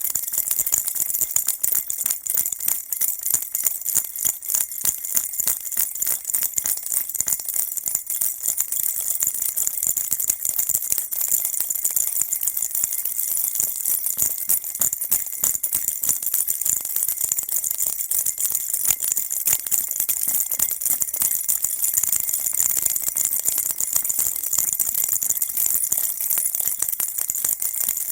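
Baby rattle shaken continuously, a dense stream of fast bright jingling with little bells ringing high above it. The shaking is kept going without a break as a steady soothing noise for a baby.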